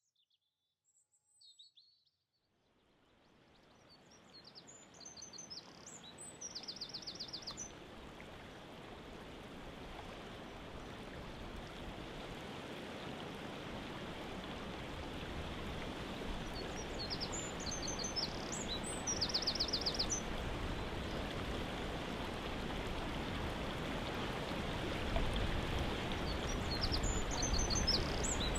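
Waterfall rushing, fading in from near silence about two and a half seconds in and growing steadily louder. A songbird sings over it three times, each a short run of notes ending in a rapid trill.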